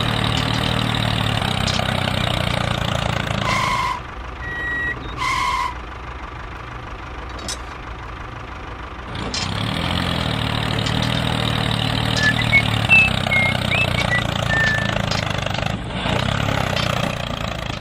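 Vehicle engine running steadily. It drops away about four seconds in, leaving a few short electronic beeps, and starts running again about nine seconds in.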